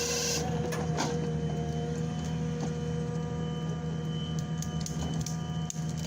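Machinery running steadily, a constant pitched hum with a few sharp clicks and knocks over it.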